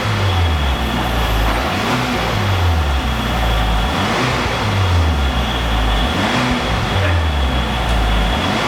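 Chevrolet Malibu 2.0 turbo four-cylinder through an aftermarket dual variable valve exhaust, the engine revved repeatedly. The exhaust note rises and falls back every couple of seconds.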